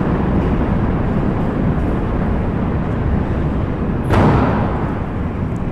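Steady low rumbling noise of a Delta IV Heavy rocket's three RS-68 engines during ascent, with a brief louder, brighter surge about four seconds in.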